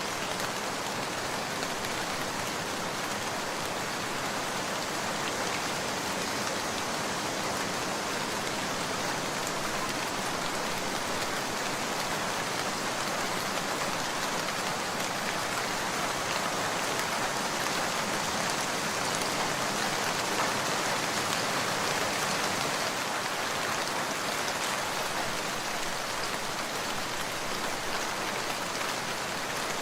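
Steady rain falling and pattering on surfaces, an even hiss that swells a little midway.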